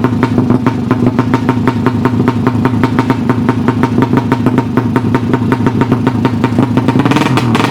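Tuned 200cc single-cylinder underbone motorcycle engine idling steadily, a loud, even beat of about ten firing pulses a second.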